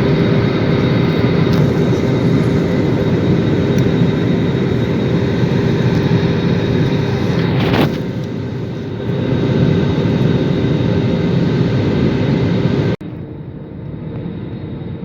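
Airliner in flight, heard inside the cabin: a steady drone of engine and airflow noise with a constant hum. About 13 seconds in it cuts abruptly to a quieter stretch of the same kind of noise.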